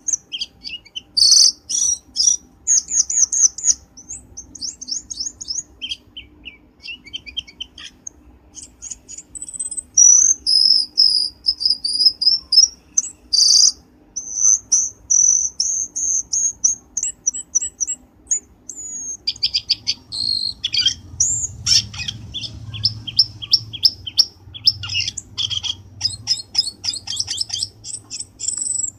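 Cucak keling bird calls played as a lure: bursts of fast, high chattering notes and short clear whistles, one burst after another with brief gaps. A low hum joins in about two-thirds of the way through.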